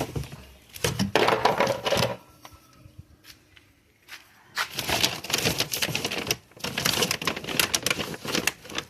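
Dry dog food rattling as it is poured out, in three bursts of dense rapid clicking.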